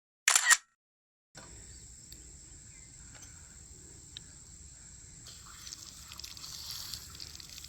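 A camera shutter clicks once at the start. After a second of silence, steady outdoor ambience sets in, carrying an insect's high, unbroken drone.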